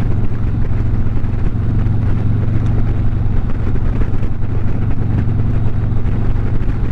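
Harley-Davidson motorcycle engine running steadily at highway cruising speed, with wind rushing over the microphone.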